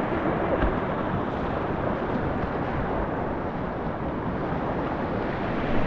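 Steady rush of river rapids, with wind buffeting the microphone.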